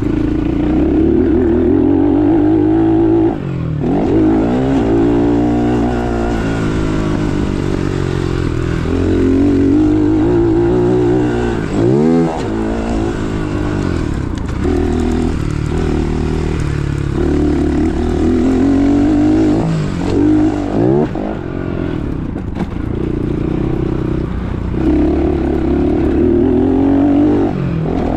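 Dirt bike engine running hard, its revs rising and falling repeatedly, with several sharp drops in pitch that pick straight back up as the throttle is chopped and reopened.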